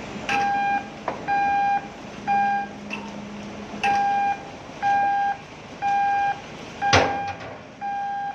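A warning beeper on heavy equipment sounding over and over, about one beep a second, each beep a steady high tone lasting about half a second. A few sharp knocks come between the beeps, the loudest about seven seconds in.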